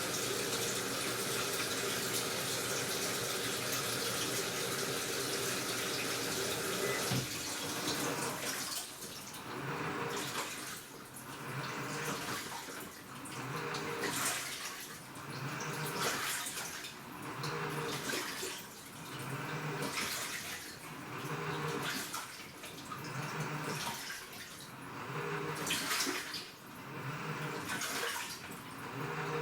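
Washing machine taking in water with a steady rush. About seven seconds in the inflow cuts off and the wash action starts, the water sloshing in a regular swish about every two seconds.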